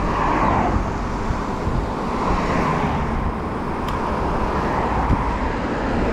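Steady rush of wind and rolling noise from riding along a rough trail, swelling and easing every second or two.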